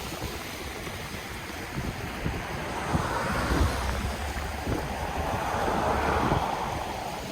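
Ocean waves on the shore: a wave swells and breaks about three seconds in, its wash running on until near the end, with wind gusting on the microphone.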